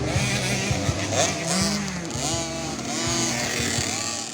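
Engines of several small 50cc motocross bikes revving up and down, their pitch rising and falling over and over.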